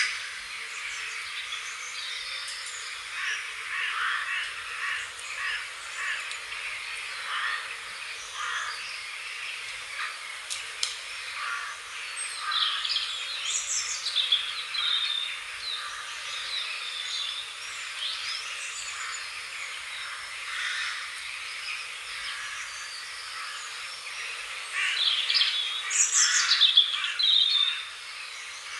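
Several birds singing and calling: a steady run of short chirps and trills over a faint hiss, busier and louder about halfway through and again near the end.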